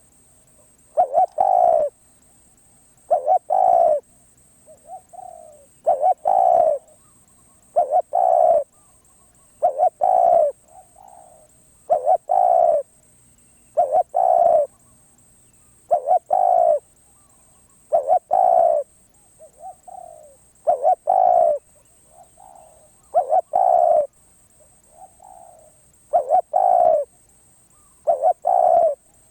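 Spotted dove cooing close by: a loud phrase of two quick low coos repeated about every two seconds, with fainter single coos between some phrases.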